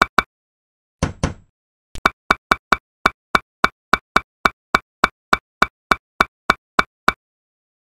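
A rapid run of about twenty identical light clicks, three to four a second, the stop-motion sound effect for miniature bricks being laid one by one. About a second in, two duller knocks come before the run.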